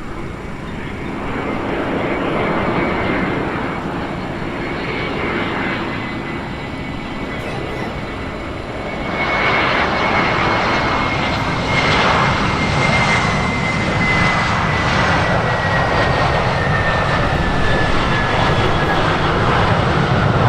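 Jet airliner passing close by, its engines making a loud rushing roar that swells about nine seconds in, with a high whine that slowly drops in pitch as it goes by.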